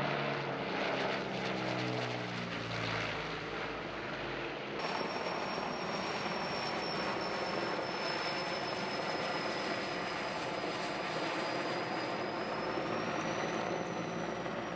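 A firefighting aircraft flies past, its engine note falling in pitch as it goes by. After a cut about five seconds in, steady aircraft engine noise follows, with a high turbine whine that rises slightly near the end.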